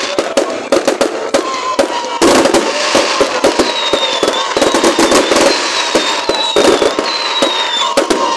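Fireworks display: a rapid, continuous string of sharp bangs and crackles, with thin high whistling tones over them from about three seconds in.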